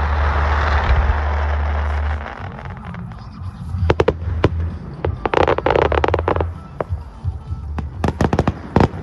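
Fireworks display: a steady rushing noise for the first two seconds, then a run of sharp bangs and crackles from about four seconds in, with a dense crackling burst midway and a quick volley of reports near the end.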